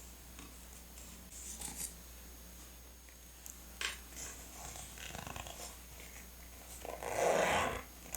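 Small paper and stationery handling sounds, light taps and rustles, with a louder rough rustling noise lasting under a second near the end.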